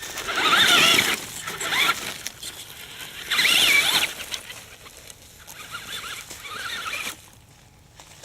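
Electric RC truck's motor and drivetrain whining in short throttle bursts, the pitch wavering up and down. There are four bursts, the loudest about half a second and three and a half seconds in.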